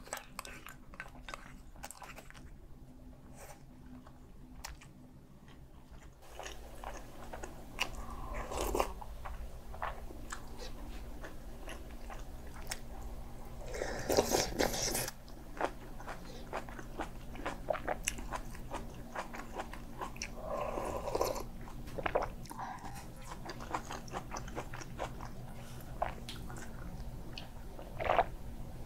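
Close-miked eating sounds from a meal of kimchi stew with Spam: biting and chewing with many short wet clicks, and a louder noisy burst about halfway through.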